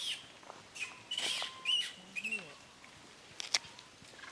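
Monkeys giving a few short, high squealing calls that rise and fall in pitch, with a sharp click about three and a half seconds in.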